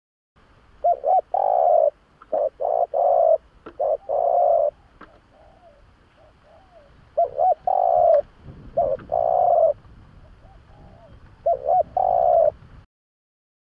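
Spotted dove cooing: about four phrases, each a couple of short notes followed by long, low coos, with fainter coos in the gaps between phrases.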